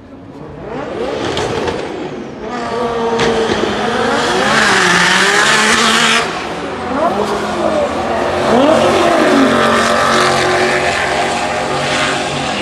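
Drag cars' engines revving and running hard at full throttle on a drag strip, several engine notes sliding up and down in pitch. The sound builds over the first few seconds, dips briefly about six seconds in, then rises again.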